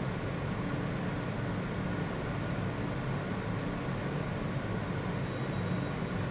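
Steady low rumble and hum of an R160 subway car running between stations, with no braking or other changes.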